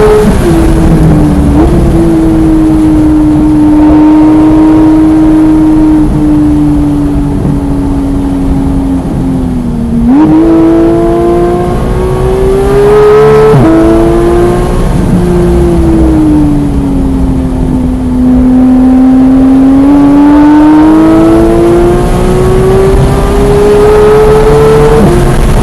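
Porsche 991.1 911 GT3's flat-six engine under hard driving on track. The revs sag slowly, jump up about ten seconds in with a downshift, climb and fall as it changes up a gear about halfway, then climb steadily until another upshift near the end.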